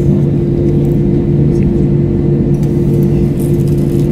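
Steady cabin drone of an SAS Airbus A321-232 heard from inside the passenger cabin: engine and airflow noise as a constant low rumble with two held hum tones.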